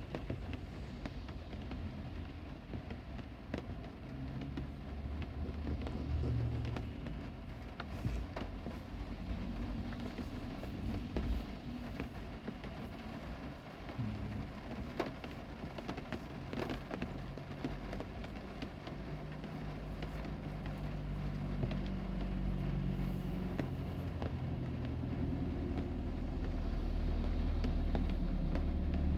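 Heavy rain falling, with scattered sharp drop ticks over a steady hiss. A low rumble underneath builds and grows louder over the last third.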